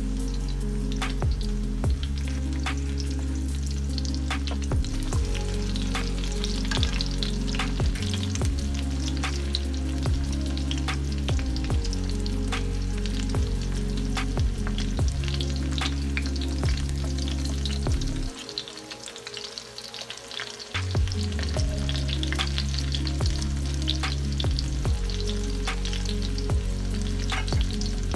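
Breaded chicken cutlets shallow-frying in oil in a cast-iron skillet: a steady sizzle full of sharp crackles and pops.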